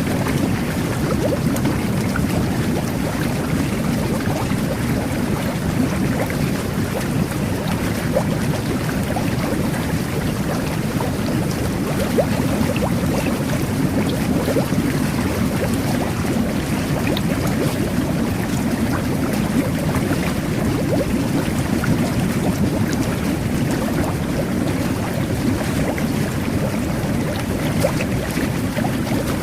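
Jet bath (whirlpool tub) running: a steady churning rush of water and air bubbles with a faint crackle of bursting bubbles.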